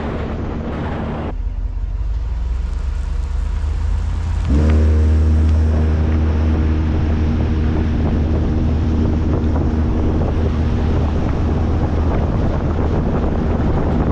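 Salt truck's engine running steadily under way. About four and a half seconds in it gets louder and a steady hum with several pitches comes in.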